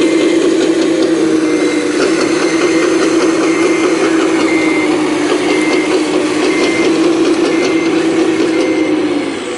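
Full-size hydraulic excavator working: its diesel engine drones, pulled down in pitch under load from the start and recovering near the end, with clanking and rattling from the machine. A faint short beep repeats about once a second.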